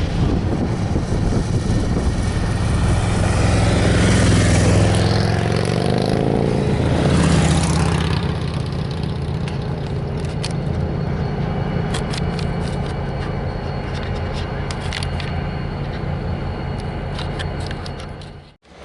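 Diesel locomotive engine running, its pitch swelling and falling back around four to eight seconds in, then settling steady with scattered metallic clicks and clanks. The sound cuts out abruptly just before the end.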